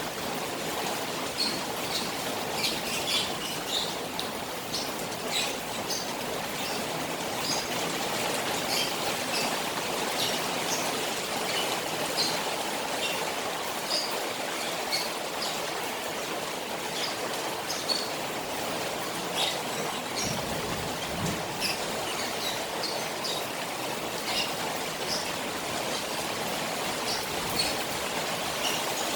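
Rain falling on a koi pond with running water: a steady watery hiss, dotted with many short, high-pitched plinks.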